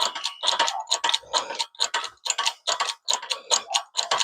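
Hydraulic shop press being pumped by hand, giving a quick, even clicking of about four clicks a second. The ram is still being run down toward a driveshaft U-joint and has not yet made contact.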